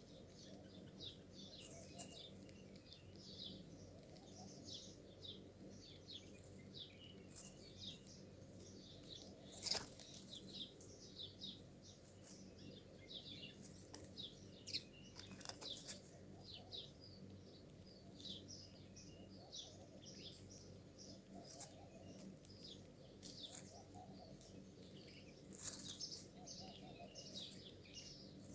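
Faint chatter of many small birds, with short high chirps overlapping one another throughout and a few louder, sharper notes about ten, fifteen and twenty-six seconds in.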